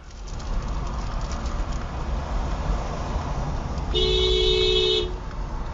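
Low, steady road and engine rumble inside a moving car. About four seconds in, a two-tone car horn honks and is held for about a second.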